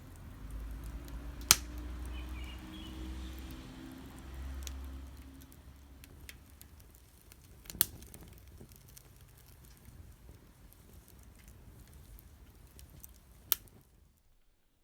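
Wood fire burning in a homemade pail-can wood gas stove, crackling with faint ticks and three sharp pops about six seconds apart. A low rumble sounds in the first few seconds.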